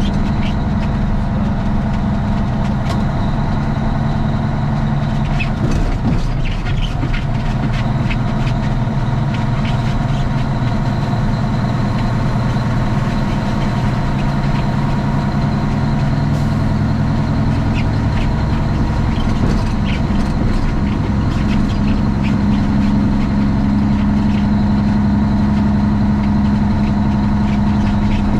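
Straight-piped Cummins ISX diesel in a Kenworth T800 running with a steady deep drone. There is a brief break in the note about six seconds in, and the drone grows a little stronger in the last third. Light rattles and ticks sound over it.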